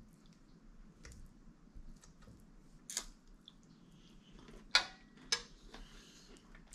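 Eating sounds of a person chewing a last bite of food, with a few sharp clicks scattered through it, the loudest about five seconds in.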